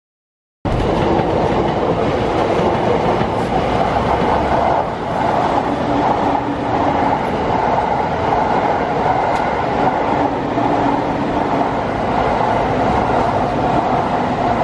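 Electric commuter trains running on a multi-track railway: a steady, dense noise of wheels on rails. It cuts in abruptly just under a second in.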